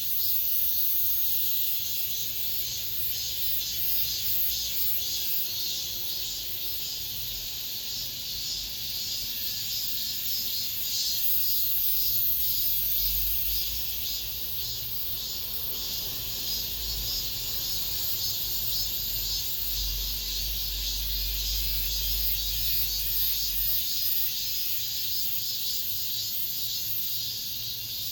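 Cicadas singing in chorus, a dense high buzz with a fine, rapid pulsing, with a low rumble underneath through the middle stretch.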